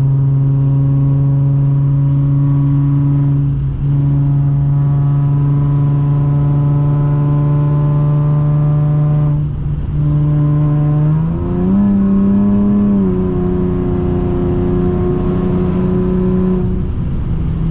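Infiniti G37x's 3.7-litre V6 engine under way at a steady cruise, its note holding one pitch with two very brief dips. About two-thirds of the way through, the revs climb to a higher pitch, then ease off slightly and hold there.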